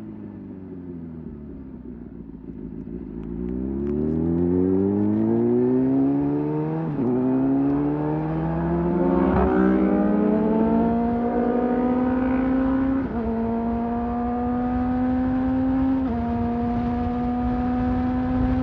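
Sport motorcycle engine slowing at first, then accelerating and shifting up through the gears; the pitch drops a little at each of four upshifts and then climbs again, flattening toward the end.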